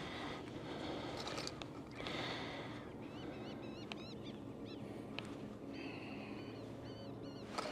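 Gulls calling over the water: many short, arched cries in quick series, starting about three seconds in, after a rushing hiss in the first two seconds.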